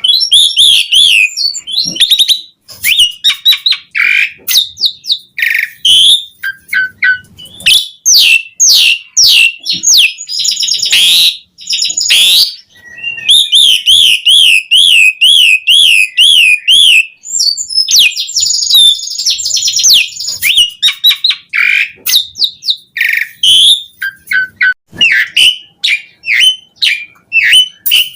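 Javan pied starling (jalak suren) singing loudly and continuously: a rapid, varied run of whistles, squeaky notes and chatter, typical of a bird in full song with mimicked phrases. Around halfway, a fast warbling trill is held for several seconds.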